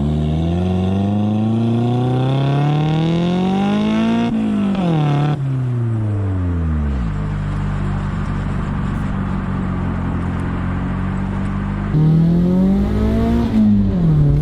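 Car engine pulling under acceleration, its pitch rising for about four seconds, then falling as the throttle is lifted and the car slows. It runs steadily for several seconds, then climbs again briefly and drops off on a second lift near the end.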